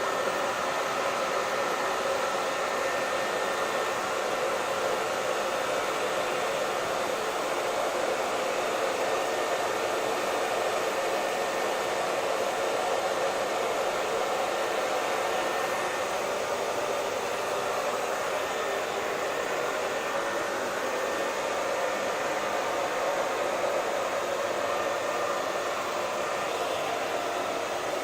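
Hair dryer running steadily: an even blowing hiss of motor and airflow with a faint steady whine.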